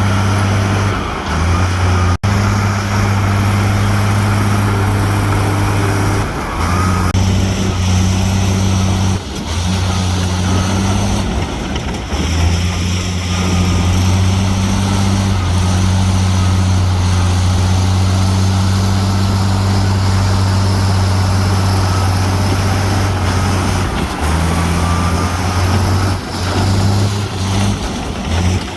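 Heavy diesel engine of earthmoving machinery (bulldozer or dump truck) running under work with a steady deep drone that breaks off and resumes several times. There is a momentary dropout about two seconds in.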